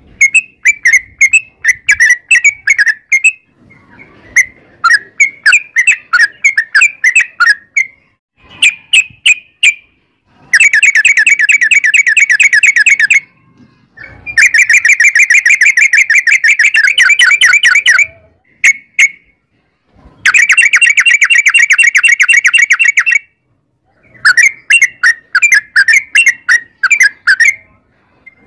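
Yellow-vented bulbul (trucukan) singing: groups of quick, bubbly chirping notes, broken three times by a long rapid rolling trill of about three to four seconds each.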